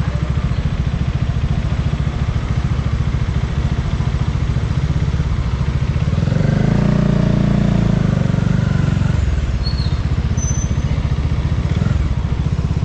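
Bajaj Dominar 400's single-cylinder engine running under way. The engine note swells about six seconds in as the bike accelerates, then drops back about three seconds later.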